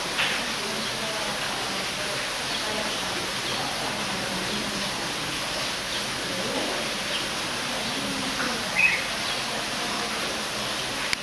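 Small birds giving occasional short calls over a steady background hiss, with a louder call about nine seconds in. Faint distant voices can be heard.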